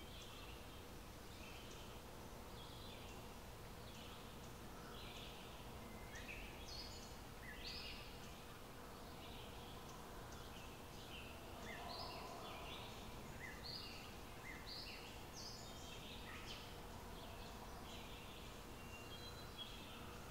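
Birds chirping and singing outdoors: many short, overlapping calls, over faint low background noise.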